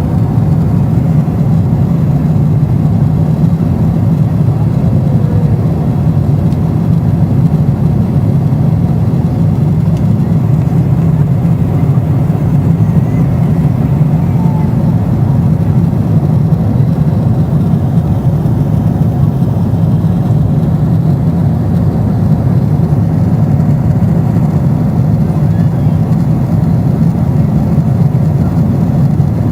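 Airliner cabin noise in flight: a steady low drone of engines and rushing air that holds even throughout.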